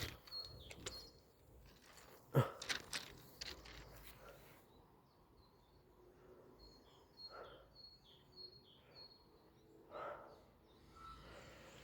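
Faint outdoor ambience with a small bird chirping over and over in short high notes, and a sharp knock about two and a half seconds in.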